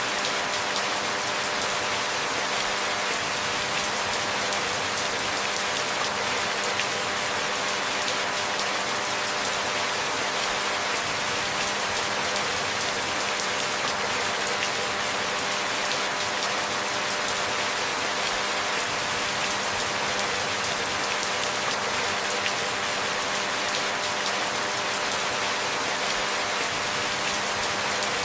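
Steady rainfall, an even hiss that does not change, with a faint steady hum beneath it.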